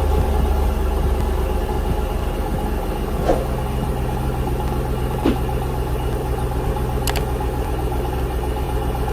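Car's V8 engine idling steadily, with a few brief clicks over the running sound.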